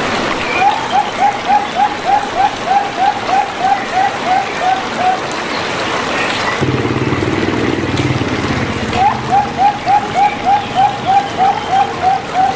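Zebra dove (perkutut) singing: two runs of quick staccato coo notes, about three to four a second, with a lower pulsing purr between them. A steady hiss like rain or running water lies under the song.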